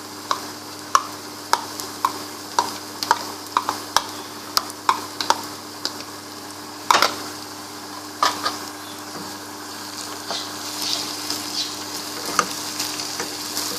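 Onions and ginger garlic paste sizzling in hot oil in a pan while being stirred, the spoon knocking against the pan about twice a second for the first few seconds, then a couple of louder knocks. The sizzle grows stronger near the end.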